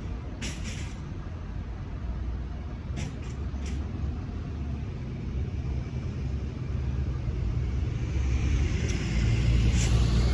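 Vehicles passing, a low rumble that grows louder toward the end as one goes by close, with a few sharp clacks in the first few seconds.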